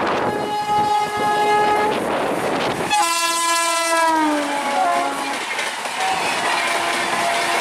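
Indian Railways WAP-7 electric locomotive sounding its multi-tone horn in two blasts as it passes at speed, the second blast louder and falling in pitch as the locomotive goes by. Then the Rajdhani Express coaches run past with a steady rumble and wheel clatter.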